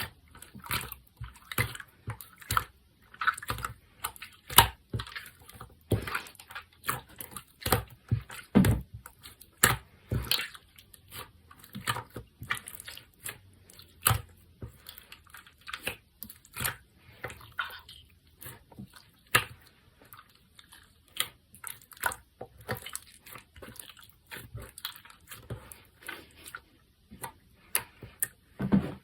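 Clear, jiggly slime being squished and poked by hand, making irregular wet clicks, pops and squelches, several a second.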